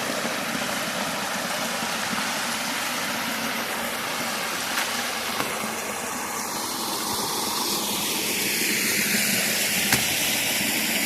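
Steady rush of flowing water, its tone slowly shifting, with a few faint clicks.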